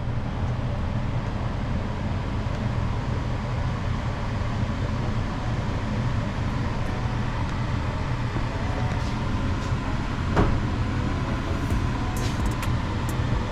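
A steady low mechanical hum and rumble, with one sharp knock about ten seconds in and a few light clicks near the end.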